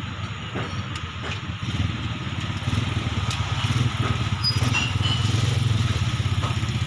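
A small engine running steadily with a fast even pulse, growing louder about two and a half seconds in.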